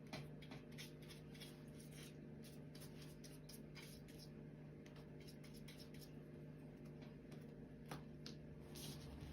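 Faint, irregular scratches and dabs of a paintbrush spreading glue on paper, over a steady low hum.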